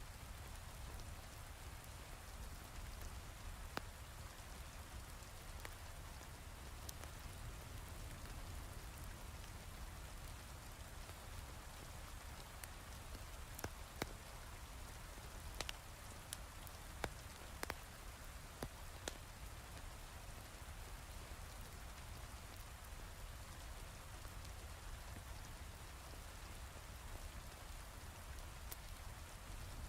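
Heavy rain falling steadily with a low rumble underneath, and scattered sharp crackles of a wood fire in a fireplace, most of them around the middle.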